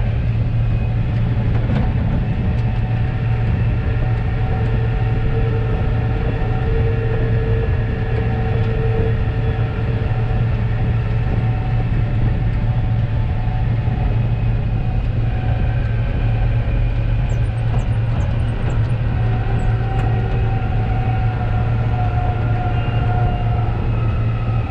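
Combine harvester running steadily under load: a constant low engine drone with steady whining tones from the machinery above it.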